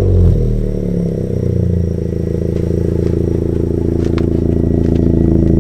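10th-gen Honda Civic Si's 1.5-litre turbocharged four-cylinder through a new MAP Performance catback exhaust, falling back from a rev over the first two seconds and then idling steadily.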